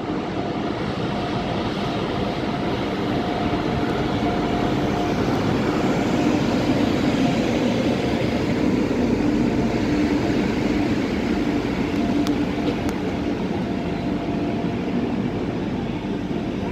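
Express train hauled by an electric locomotive rolling into the station: a steady rumble of wheels on the track with a low hum running under it, swelling a little as the coaches pass closest.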